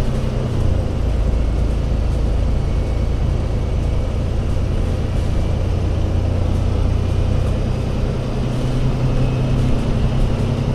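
Diesel engine of an Alexander Dennis Enviro500 MMC Euro 6 double-decker bus running steadily, a low drone that shifts slightly about half a second in and rises a little in pitch near the end.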